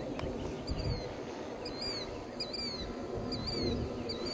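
A songbird repeating a short high chirp a little more than once a second, over a steady low drone from the distant model airplane's engine and outdoor background.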